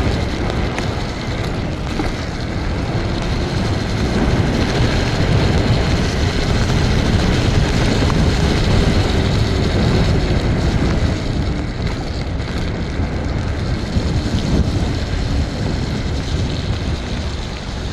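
TRBK-M2 electric scooter riding along wet streets: wind rushing over the helmet microphone with road and tyre noise underneath. The loudness swells and eases.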